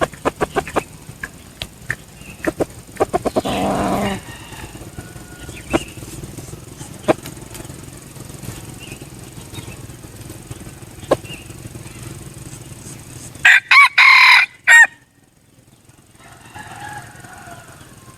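Junglefowl rooster crowing once, loudly, about two thirds of the way through: a short crow broken into a few segments, with a fainter call about two seconds later. A few seconds in there is a burst of rapid wing-flapping, and sharp clicks and knocks are scattered over the first few seconds.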